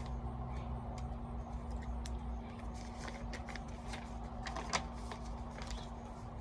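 Low background hum with a steady tone and a low rumble, with faint scattered clicks and rustles.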